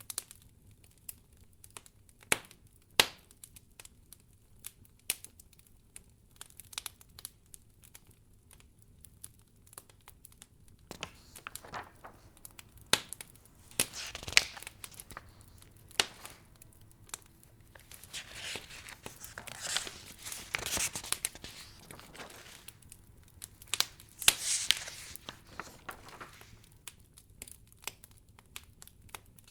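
Wood fire crackling in a fireplace: scattered sharp pops, with a few longer, louder noisy swells around the middle and again near the end.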